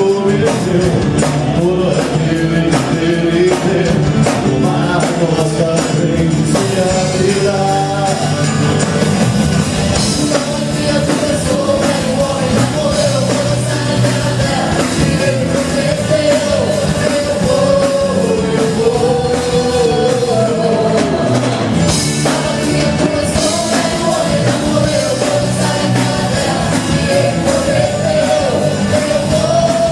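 Worship band music at a steady loud level: a lead voice sings a melody over drums and a full band.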